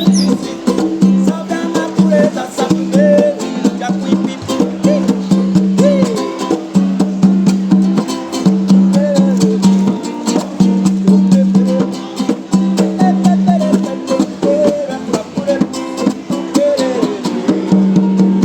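Berimbau music in an ijexá rhythm: a held low note that keeps coming back, short gliding higher notes, and quick percussive clicks throughout.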